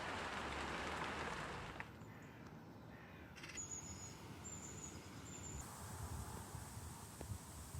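Birds calling: crows cawing, with three short high chirps a few seconds in, over a soft rushing outdoor background that is loudest at the start.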